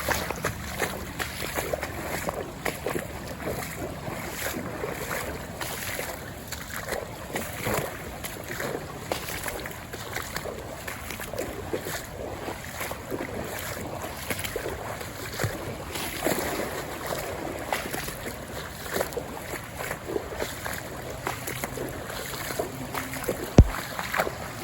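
Wind blowing on the microphone, with irregular rustles and knocks throughout and one sharp knock near the end.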